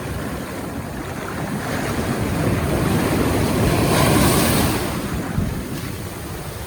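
Surf breaking and washing in around a person standing in the water, swelling to a peak about four seconds in and then ebbing, with wind buffeting the microphone.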